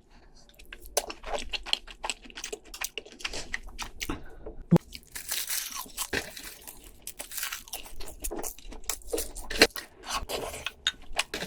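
Close-miked eating of crab: shells cracking and crunching in quick, irregular snaps, with chewing in between.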